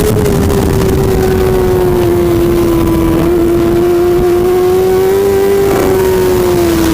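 Racing superbike engine running at high revs, its pitch holding and sagging slowly, rising briefly about five seconds in, then falling away near the end.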